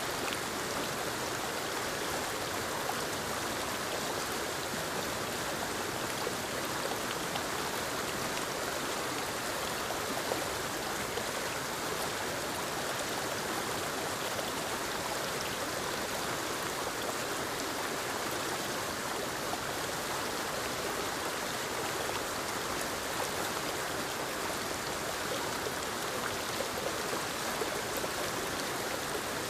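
Forest waterfall and creek: water tumbling over rocks into a stream, a steady rushing sound that stays even throughout.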